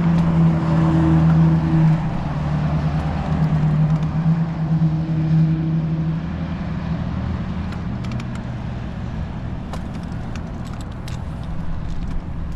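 Car engine hum and road noise while driving, easing off a couple of seconds in, with a few light clicks in the second half.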